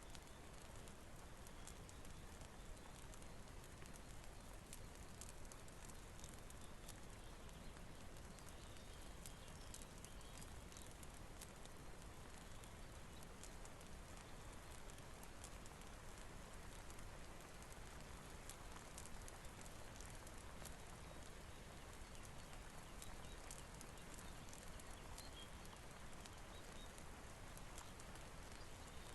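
Faint, steady rain with a crackling fire, scattered sharp little ticks over an even hiss.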